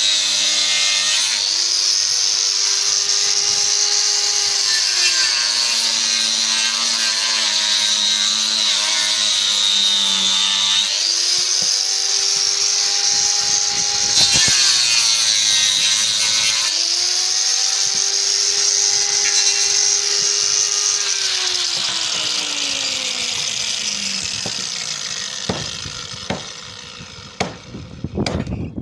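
Power saw cutting wood, its motor pitch sagging and recovering under load as it works through the cut. It slows and stops near the end, followed by a few sharp knocks.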